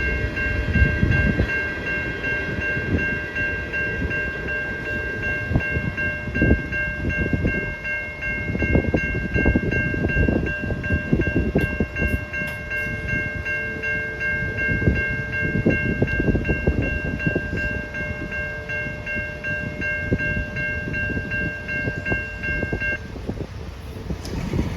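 Safetran Type 3 electronic level-crossing bells ringing with a steady high tone, over the rumble of a passing train. The bells stop about a second before the end.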